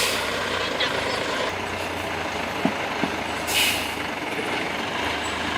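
Heavy diesel machine's engine running steadily at a low hum, with a short hiss about three and a half seconds in.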